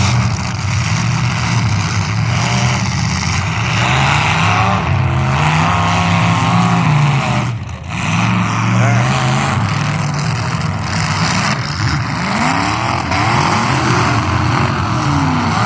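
Engines of several full-size demolition derby cars running hard, revving up and down as the cars manoeuvre and push into each other, with the overlapping engine notes rising and falling; the level dips briefly about halfway through.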